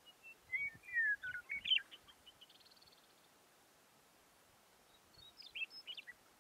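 A songbird singing two phrases of clear whistled notes. The first phrase, in the first two seconds, falls and then rises in pitch, followed by a faint high trill. A shorter second phrase comes about five seconds in.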